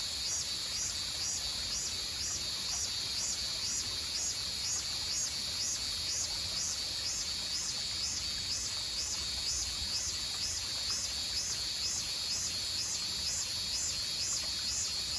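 An insect calling in a steady run of high pulses, a little under three a second, over a continuous high-pitched hiss from other insects.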